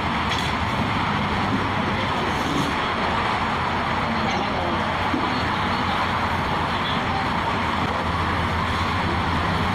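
Steady road traffic noise, a continuous rumble and hiss of passing vehicles with no distinct events, with indistinct voices under it.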